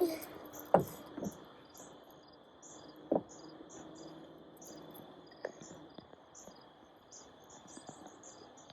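Crickets chirping steadily, with a few sharp clicks, the loudest a little under a second in.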